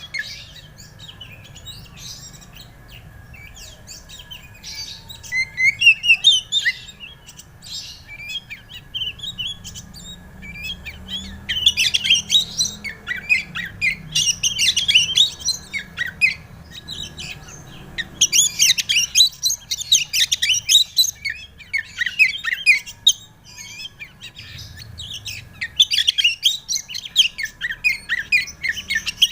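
Oriental magpie-robin (kacer) singing: bouts of rapid, varied high chirps and whistles, each lasting one to three seconds, with short pauses between them.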